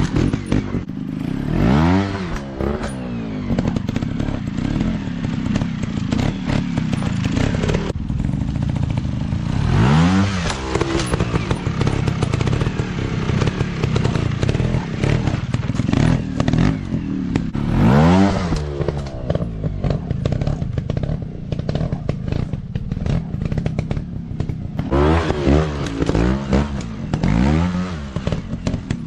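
Dirt bike engines running hard, the engine pitch rising and falling in long sweeps about every eight seconds, then three quick rev rises and drops near the end, with clattering and knocks over the engine noise.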